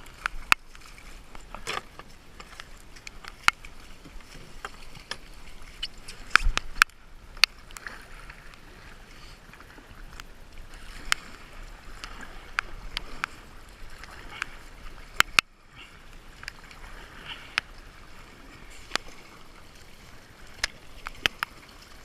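Paddling a small layout duck boat through marsh water: water splashing and dripping, with sharp knocks at irregular intervals, a few louder ones.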